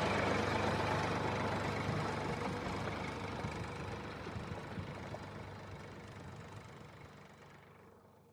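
An engine running steadily and fading out gradually until it is almost gone near the end.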